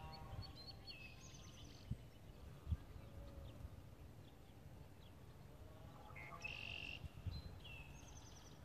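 Faint bird song: a small songbird sings the same short phrase twice, at the start and again about six seconds later, each time with a fainter, lower animal call under it. Two soft ticks come in between.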